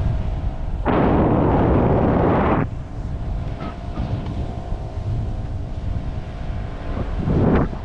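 Wind buffeting the microphone over a steady low drone, with a loud rushing blast about a second in that lasts under two seconds and stops sharply, and a shorter one near the end.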